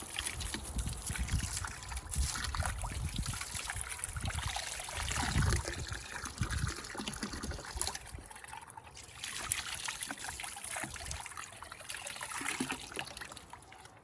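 Running water splashing and trickling over a freshly dressed chicken carcass as it is rinsed, the flow easing off briefly about eight seconds in.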